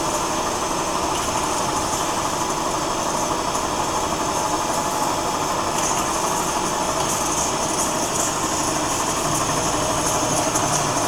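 Sabi PBS320A CNC saw running with a steady machine hum and hiss. About six seconds in, a brighter, higher hiss joins it.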